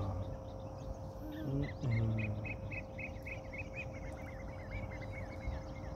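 A bird calling in a quick run of short chirps, about four a second, growing fainter toward the end. A brief low voice-like sound comes just before the chirps start.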